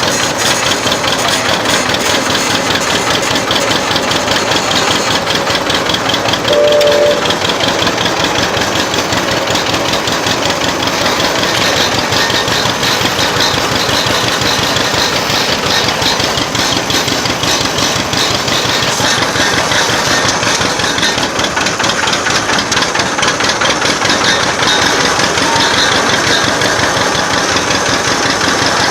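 Old tractor engine running steadily, with a rapid, even beat of firing pulses. About six and a half seconds in, a short tone sounds briefly over the engine.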